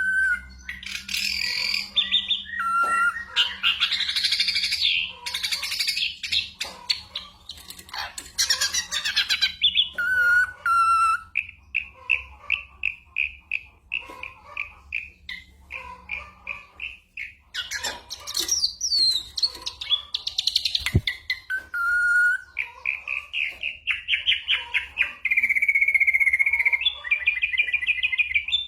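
Ashy drongo singing a varied song with imitations of other birds. Harsh chattering phrases and short whistles alternate with long runs of rapid, evenly repeated notes.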